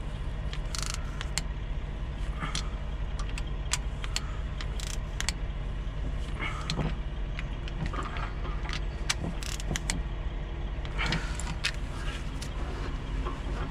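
Irregular metallic clicks and clinks of hand tools and engine parts being handled, during the tightening of a diesel fuel injector's hold-down fastener. A steady low hum runs underneath.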